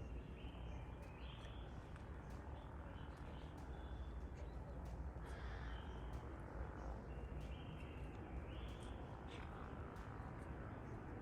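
Birds calling, with short repeated calls in a group near the start and another about two-thirds of the way through, over a steady low rumble.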